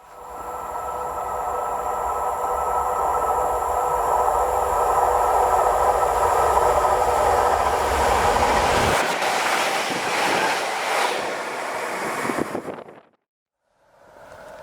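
Electric train passing at speed: the sound swells up, stays loud with a steady whine over a deep rumble, then the rumble drops away about nine seconds in and the noise fades before it cuts off.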